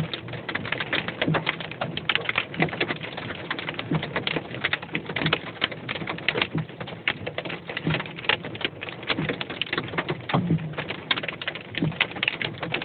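Hailstones hitting the car's roof and windshield, heard from inside the cabin: a dense, irregular patter of sharp clicks and knocks.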